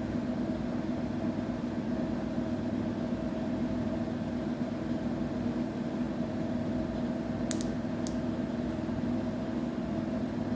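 Washing machine running with a steady hum. Two short clicks come close together about three quarters of the way through.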